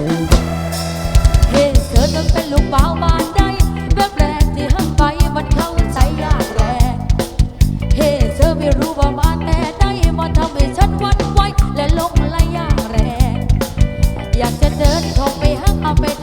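Live band playing an instrumental passage through a PA: drum kit keeping a steady beat under bass and a wavering lead melody.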